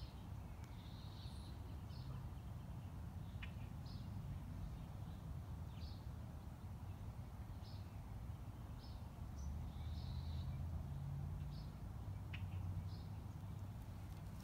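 Birds giving short, high chirps, roughly one a second, over a steady low rumble.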